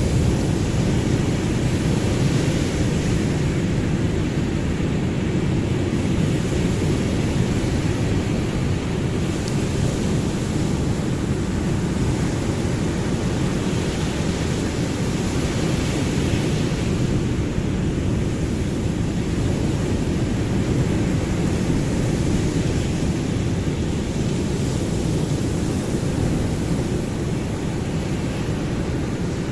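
Ocean surf: a steady low rumble of breaking waves, with the hiss of the wash swelling and fading a few times.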